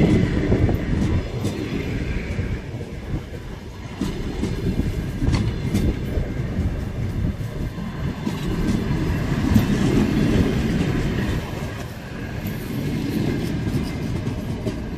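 Train rolling along the station tracks: a steady low rumble of wheels on rails with scattered sharp clicks, swelling around the middle and easing near the end.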